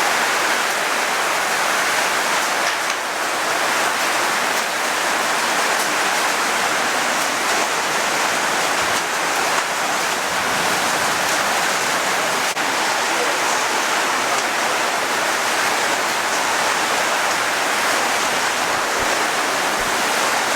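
Heavy downpour pelting down: a loud, steady rush of rain with water pouring and running off.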